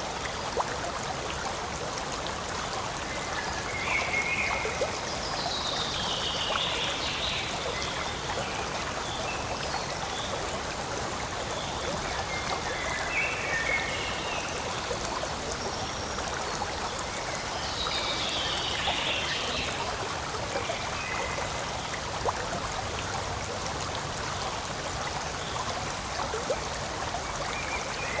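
Forest stream flowing, a steady rush of water with fine trickling and bubbling, and a few brief high chirps above it.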